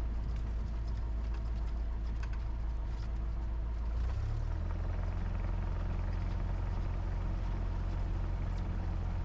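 Cessna 172's four-cylinder piston engine running at low power after landing, a steady low drone with a slight change in its hum about four seconds in.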